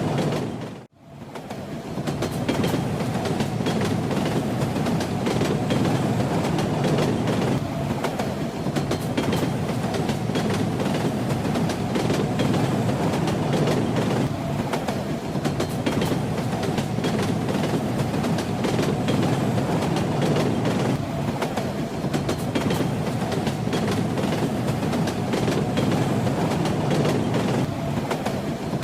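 Moving train running steadily, with the rumble and rattle of its wheels on the rails. About a second in the sound drops out briefly and fades back in.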